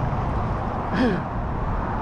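Wind rushing over the microphone while riding a bicycle, a steady rough noise, with one short voiced sound from the rider, like a sigh or grunt, about a second in.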